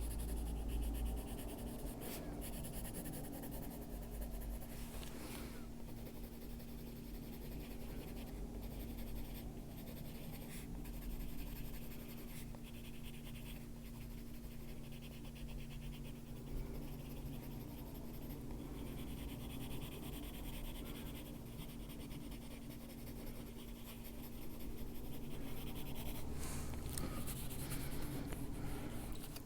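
Coloured pencil scratching on paper in runs of quick strokes with short pauses between them, as colour is laid down on a colouring-book page.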